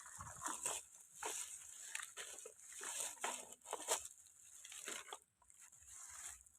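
Faint, irregular rustling and light clicks, like a small plastic toy vehicle being handled.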